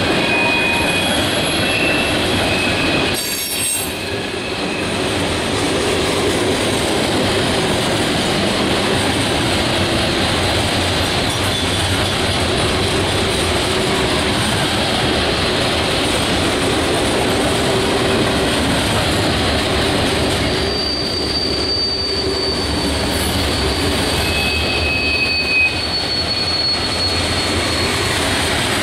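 Loaded coke hopper cars of a freight train rolling past, a steady loud rumble of steel wheels on rail. Thin high wheel squeals come and go over it, one held for several seconds near the end.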